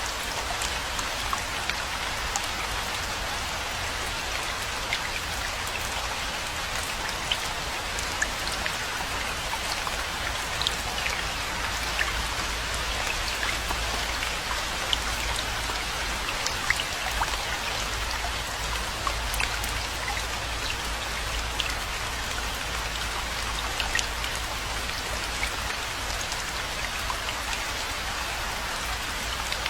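Steady rainfall: an even hiss of rain with many separate drops ticking sharply on top, over a low steady rumble.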